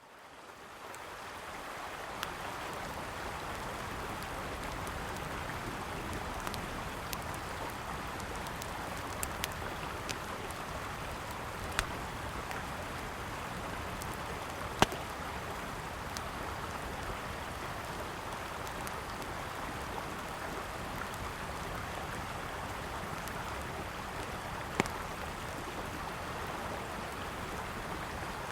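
Steady rush of a flowing river, fading in over the first two seconds, with sharp pops and crackles from a wood campfire every few seconds; the loudest pop comes about halfway through.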